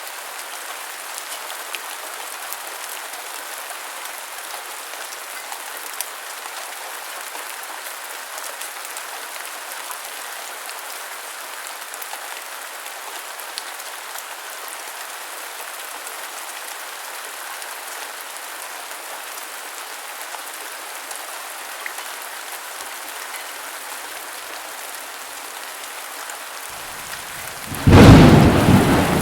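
Steady heavy rain hissing, with a few scattered drop ticks. Near the end a loud thunderclap breaks in and rolls on as a deep rumble.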